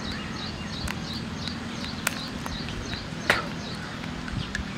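A bird chirping in a quick, regular series of short high notes, about three a second, over steady outdoor background noise. A couple of sharp clicks cut in, the louder one a little past three seconds in.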